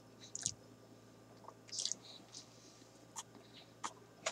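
A person chewing a mouthful of burger close to the microphone, with a few scattered wet clicks and smacks at irregular moments.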